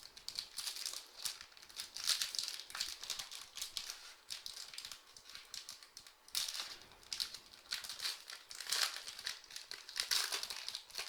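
Trading card packaging being handled and opened: crinkling and rustling in irregular bursts, loudest about two, six and a half and nine to ten seconds in.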